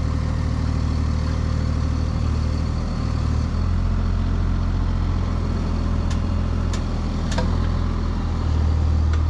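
Excavator engine running steadily, its low note shifting slightly about three and a half seconds in and again near the end, with a few sharp clicks in between.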